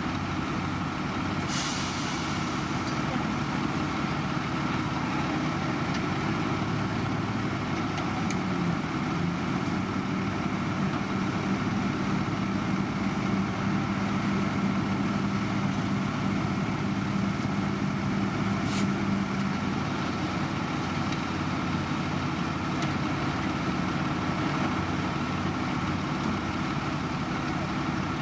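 Heavy diesel road-construction machinery running steadily, with a short hiss of air about a second and a half in and a sharp click past the middle.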